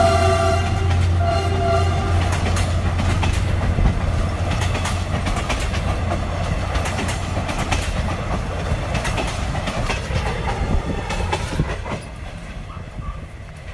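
Diesel locomotive passing with its engine running and sounding its horn in two short blasts at the start, followed by the clickety-clack of passenger coach wheels over the rail joints, fading as the train moves away near the end.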